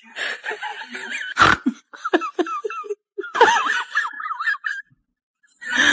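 People laughing in short, broken bursts, with a sharp knock about a second and a half in.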